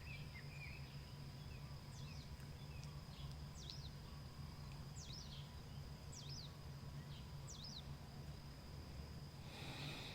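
Birds singing at dawn: one bird repeats a short, high, down-slurred note about every second, over a faint steady low hum.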